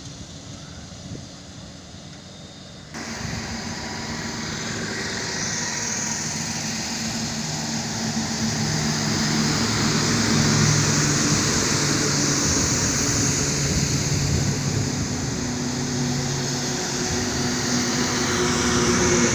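Truck engine running with road and wind noise while driving, steady hum with a few pitches. It jumps up abruptly about three seconds in and then grows gradually louder.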